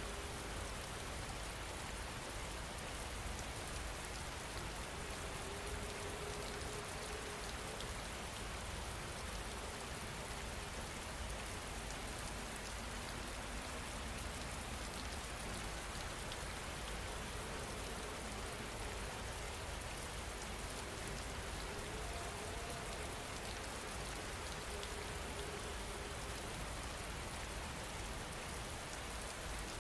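Steady rain falling, with faint scattered crackles from a wood fire in a fireplace.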